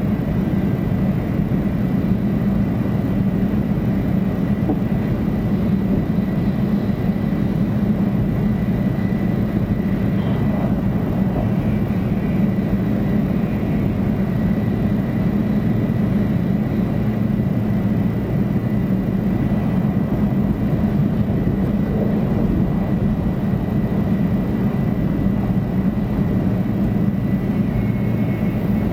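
Running noise of a 500 Series Shinkansen heard from inside the passenger cabin: a steady low rumble with a faint, thin, steady high tone above it.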